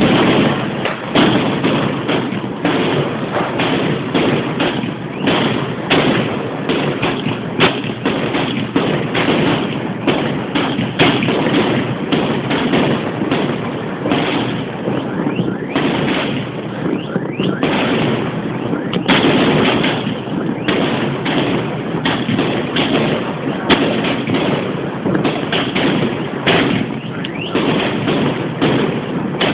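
Fireworks going off in a continuous, dense barrage of bangs and crackling, with many sharper, louder reports scattered throughout.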